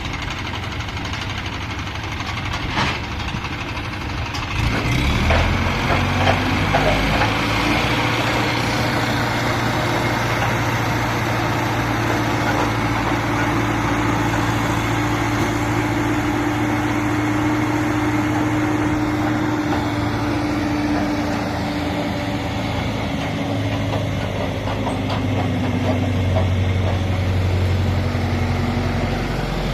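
Farm vehicle's diesel engine running just after starting; it picks up speed about four to five seconds in, then runs steadily.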